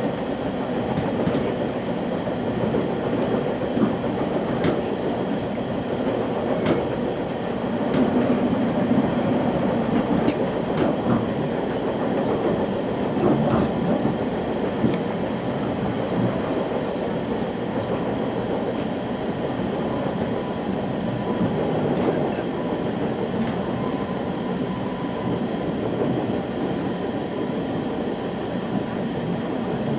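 Ride noise inside a West Coast Express commuter train car running along the line: a steady rumble of wheels on rails with scattered light clicks and knocks.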